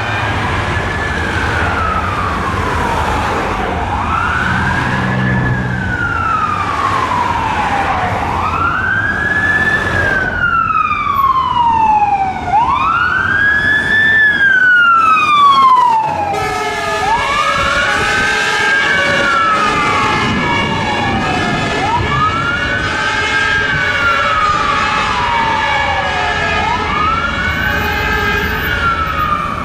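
Fire engine sirens wailing, each cycle a quick rise followed by a slower fall, repeating about every four to five seconds. A second siren overlaps the first in the middle. From about halfway a steady, held tone joins them.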